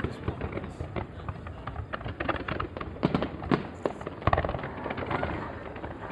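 Fireworks display: a rapid, irregular string of bangs and crackles, with a few louder reports around the middle.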